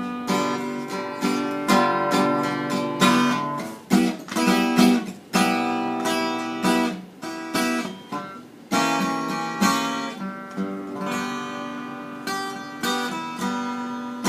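Solo acoustic guitar playing a slow, bluesy passage of strummed chords and picked notes, each one ringing on, as the instrumental close of a song.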